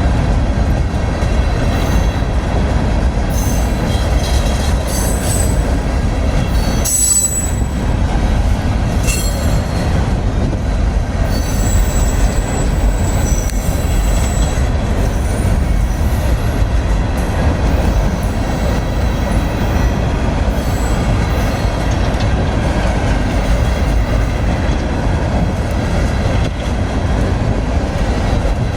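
Train cars rolling past at close range, steel wheels rumbling steadily on the rails, with brief high-pitched wheel squeals coming and going.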